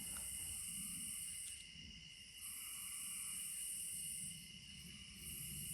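Night insect chorus: a very high-pitched buzzing that swells for about two seconds, stops for about a second and starts again, over a steady higher trill.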